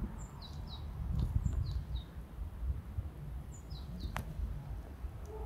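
Small birds chirping in short, falling high notes, in two quick runs, over a louder low fluttering rumble of wind on the microphone.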